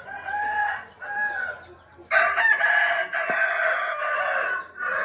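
Rooster crowing: two short calls, then from about two seconds in a long, loud crow lasting nearly three seconds.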